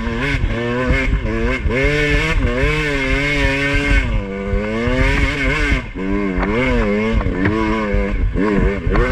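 Two-stroke dirt bike engine revving up and down under constant throttle changes, its pitch rising and falling about once a second as the bike is ridden through slick mud.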